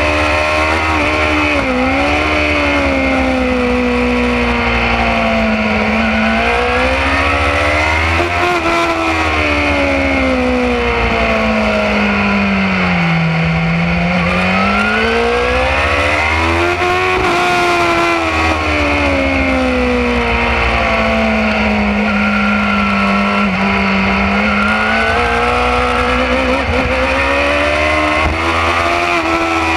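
BMW S1000RR's inline-four engine at track speed, its pitch climbing under acceleration and falling as it slows, several times over, lowest about halfway through. A heavy wind rumble on the bike-mounted microphone runs under it.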